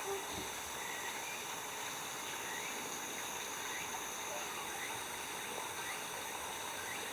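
Outdoor ambience of a steady high insect chorus with faint, short chirps every second or so.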